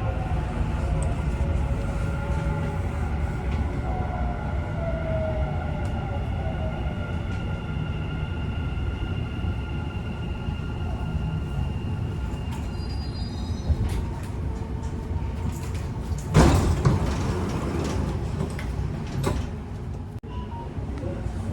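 Dubai Metro train slowing into a station, its motor whine falling in pitch over the steady running rumble. A short high chime follows, then a loud sudden clunk about three-quarters of the way through as it stops and the sliding doors open.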